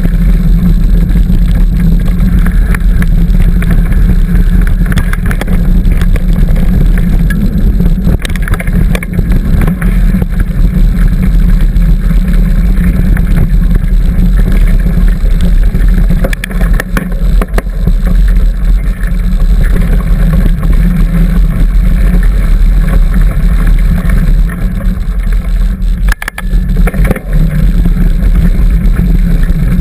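Loud, steady low rumble of wind and riding vibration on the camera microphone of a bicycle riding a dirt trail, with scattered knocks and rattles. The rumble drops out for a moment a little after 26 seconds.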